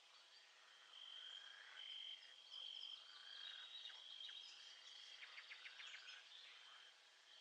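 Faint nature ambience: a steady high-pitched trill of calling insects or frogs, with scattered chirps over it and a quick run of clicking calls about five seconds in.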